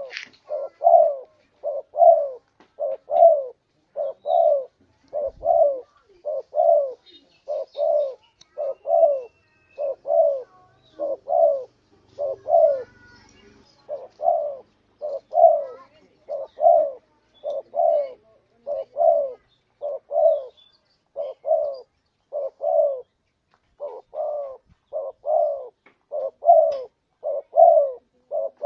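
Spotted dove (tekukur) cooing over and over, a steady run of short, low coo notes in close pairs and short groups with only brief pauses, about a break a dozen seconds in. It is a lure call for drawing in wild spotted doves, recorded from a contest-winning bird.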